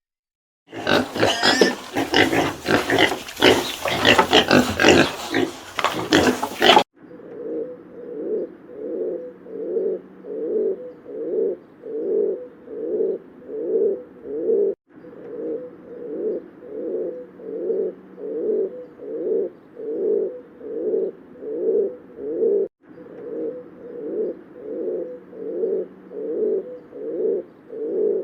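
Animal calls: about six seconds of loud, harsh grunting and squealing, then after a sudden cut a low call repeated evenly, about one every three quarters of a second.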